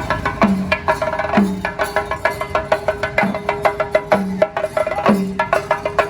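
Traditional Kerala festival percussion music: fast sharp drum strokes over a deep pitched drum beat about once a second, with a steady held tone underneath.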